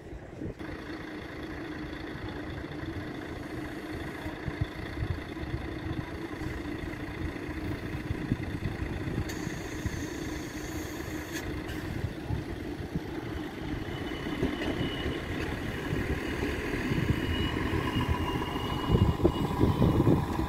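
Electric passenger train approaching along the track and pulling in alongside the platform, growing louder, with a high whine rising in from about two-thirds of the way through. A steady low hum and wind buffeting the microphone lie beneath.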